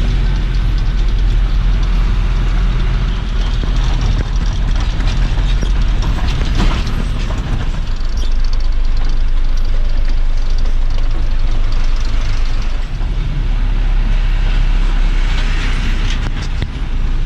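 Loud, steady truck ride noise: engine, road rumble and rattling.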